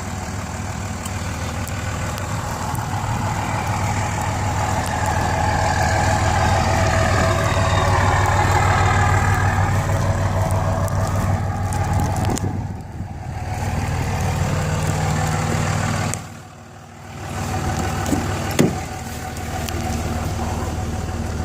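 Ram 2500's Cummins inline-six turbodiesel running under load while plowing, heard from inside the cab. The engine builds to a peak about eight seconds in, with a faint whistle gliding up and down above it, then eases off. The sound dips sharply twice, around thirteen and seventeen seconds in.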